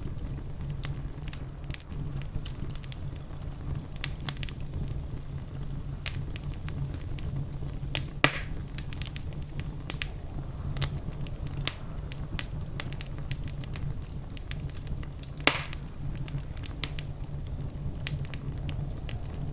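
Wood fire in a fireplace crackling steadily over a low, constant rumble, with many small snaps and two louder pops, about 8 and 15 seconds in.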